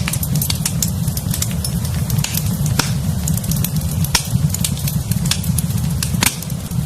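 Wood fire crackling in a fireplace: many quick pops and snaps over a steady low rumble of flames, with a few louder pops about three, four and six seconds in.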